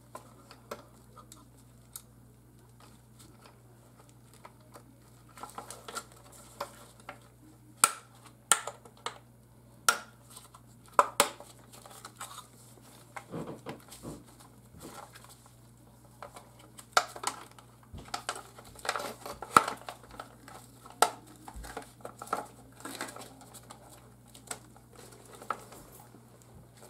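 Irregular small clicks, taps and light clatter of hard plastic and metal parts being handled, as wire connectors and control components are fitted in a refrigerator's control housing. A steady low hum runs underneath.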